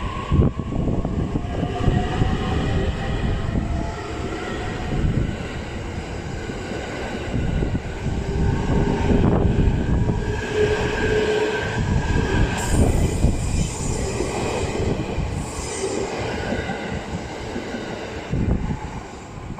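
E657-series limited express electric train moving through the station: a continuous low rumble of wheels on rails, with high squealing and whining tones that come and go over it.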